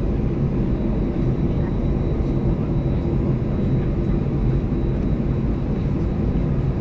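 Airbus A320-214's CFM56 engines at taxi idle, heard inside the cabin as a steady low rumble with a faint hum.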